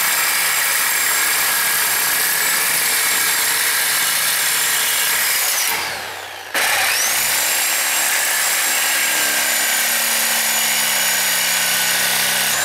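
High-speed cutoff wheel cutting through a steel exhaust bracket in two long runs. Each run has a high whine over the grinding noise; the tool spins down about halfway through, restarts with a rising whine and spins down again at the end.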